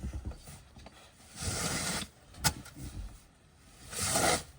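Snow shovel or pusher scraping snow across a wooden deck in strokes: two long scrapes about a second and a half and four seconds in, with a sharp knock between them.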